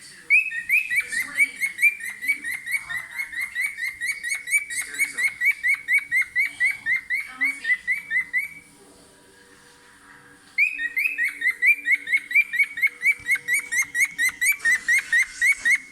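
Cockatiel chirping a fast string of short repeated whistled notes, about five a second, in two long bouts with a pause of about two seconds between them.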